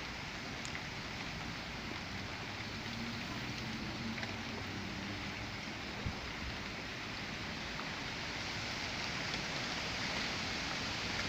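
Steady heavy rain pouring down in a thunderstorm, with a few faint drop ticks and a small knock about six seconds in, slowly growing a little louder toward the end.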